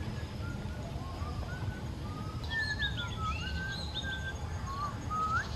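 Wild birds calling: scattered short whistled notes throughout, with a quick run of higher chirps in the middle, over a steady low rumble of outdoor background noise.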